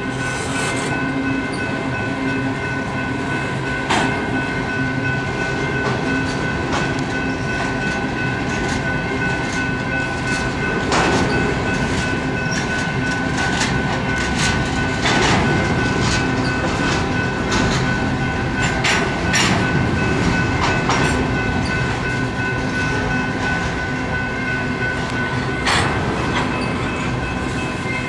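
BNSF covered grain hopper cars rolling past at a grade crossing: a steady rumble of wheels on rail, with sharp clicks now and then as wheels cross joints. A steady high ringing tone sounds over it throughout.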